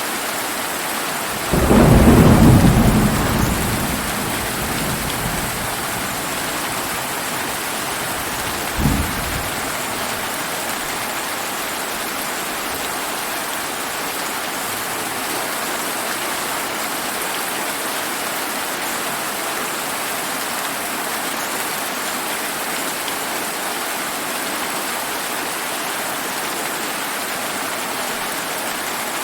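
Steady rain with a loud clap of thunder about a second and a half in that rumbles away over the next two or three seconds, and a second, shorter and weaker thunder burst around nine seconds in.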